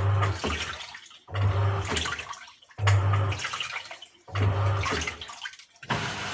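Samsung top-loading washing machine agitating: each stroke the pulsator motor hums and the water sloshes, then fades, repeating about every second and a half. Near the end the strokes give way to a steady hum with running water.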